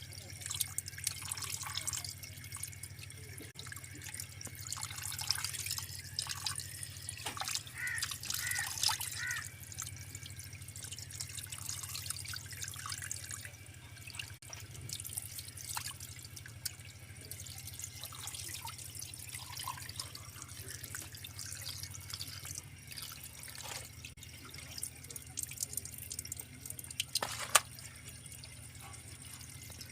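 Water running from a tap and splashing and dripping in a sink, with irregular small splashes and clicks, as when washing food or pots under the tap.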